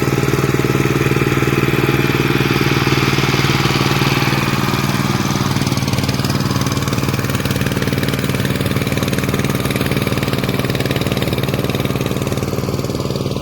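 VST Shakti 130DI power tiller's single-cylinder diesel engine running at a steady speed.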